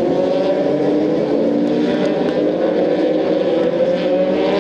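Moto2 race bikes' Triumph 765 cc three-cylinder engines going past as a group, several engine notes overlapping and sliding up and down in pitch, on what is taken for the warm-up lap.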